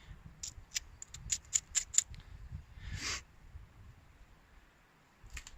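Footsteps on a rough forest path: a quick, irregular run of sharp snaps and crunches about half a second to two seconds in, then a short rustle.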